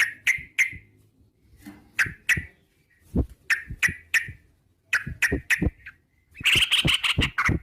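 Yellow-vented bulbul (trucukan) singing: short, sharp notes in loose groups of two or three, then a fast rolling trill near the end.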